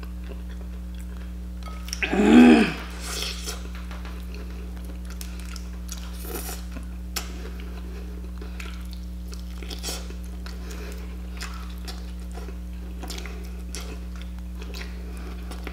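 A person chewing and biting chicken wings, with faint mouth clicks scattered throughout. There is one short, loud hummed vocal sound about two seconds in, over a steady low hum.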